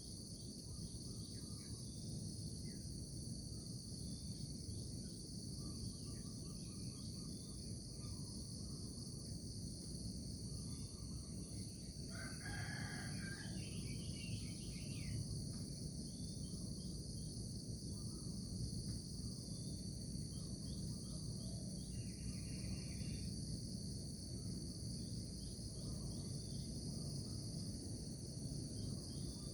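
Steady chorus of crickets and other insects, with scattered short bird chirps over a low steady rumble; a rooster crows once about twelve seconds in.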